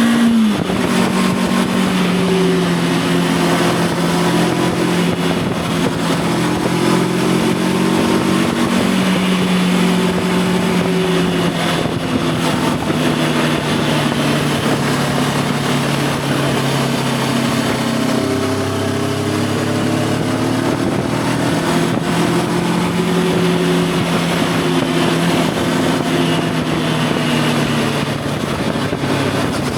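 Voge 525 DSX motorcycle's parallel-twin engine running while riding at a fairly steady pace, over wind rush. The engine note drops right at the start and again about two-thirds of the way through, then slowly climbs.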